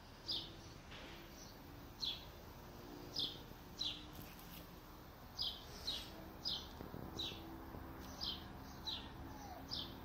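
A small songbird repeating one short, high, downward-sliding chirp about a dozen times, roughly once every half second to a second, over steady low background noise.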